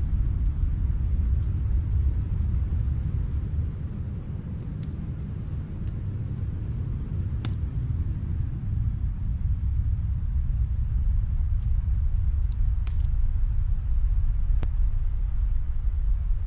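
Wood fire crackling, with scattered sharp pops and snaps, one louder pop near the end, over a deep steady rumble of snowstorm wind that eases slightly for a couple of seconds in the middle.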